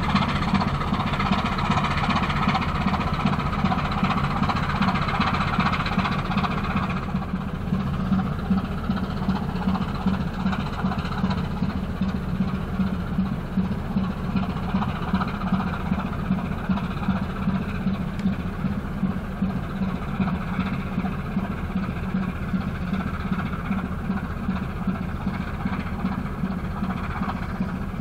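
Diesel engine of an inland cargo ship running steadily with a low, pulsing beat. A higher rushing layer fades about seven seconds in.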